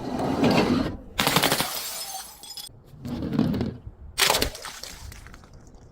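Glass bottles shattering one after another: a sharp crash about a second in with fragments ringing and tinkling, duller crunches around it, and another sharp crash about four seconds in.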